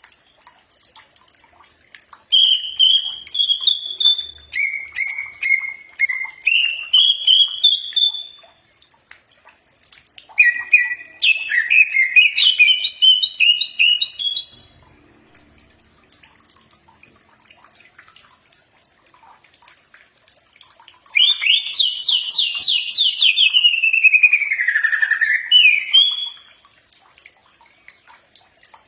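Cucak ijo (green leafbird) singing in three bouts of a few seconds each: fast runs of whistled notes that step up and down in pitch, with pauses of several seconds between bouts.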